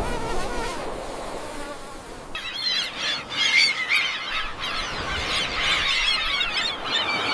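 A dense chorus of insects chirping and buzzing sets in abruptly a little over two seconds in, after a stretch of steady rushing noise.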